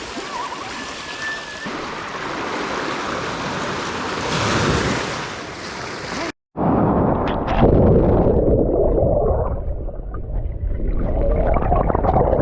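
Ocean surf washing onto a rocky beach as a steady rush of water, swelling about four to five seconds in. After an abrupt cut about six seconds in, the water and wind noise becomes closer, louder and muffled.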